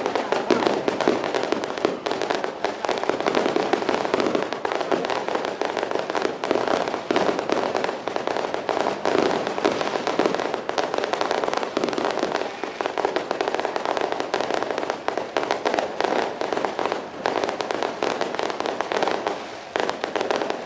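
Firecrackers and fireworks going off in a dense, continuous rattle of rapid cracks, with a short lull shortly before the end.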